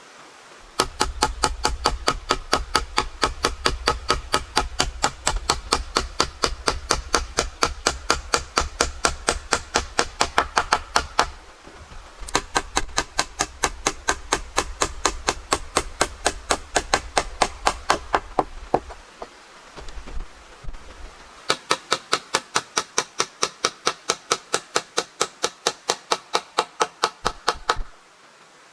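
A hammer striking in fast, even blows, several a second, in three long runs with short breaks between them.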